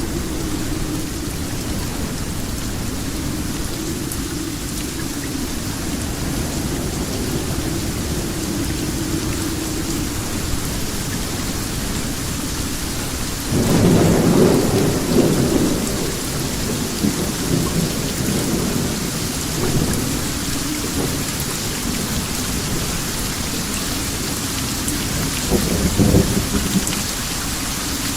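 Steady rain with rolling thunder rumbling low underneath. About halfway through a louder thunderclap breaks in and rumbles on for a few seconds, and another thunder peal swells near the end.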